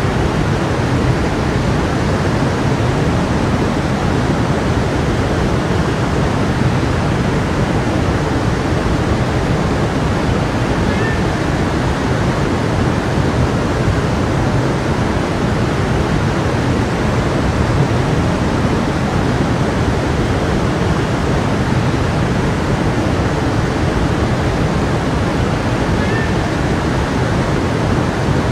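A stream flowing, its water rushing steadily and evenly.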